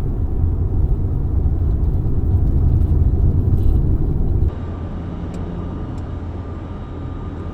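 Steady low rumble of road and engine noise inside a moving vehicle. About four and a half seconds in it drops suddenly to a quieter, steadier hum.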